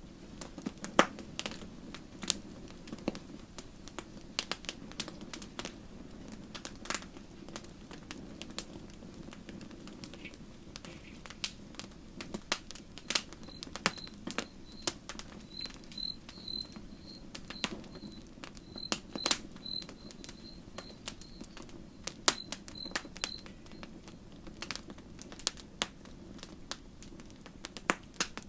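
Wood campfire crackling: irregular sharp pops and snaps over a low, steady rumble of the flames. For about ten seconds in the middle, a run of short, high chirps repeats a few times a second.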